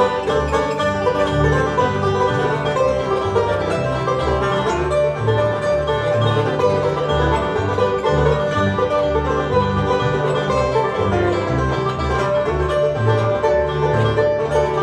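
Bluegrass band playing an instrumental break between sung verses: banjo to the fore over guitar and a steady, pulsing bass line.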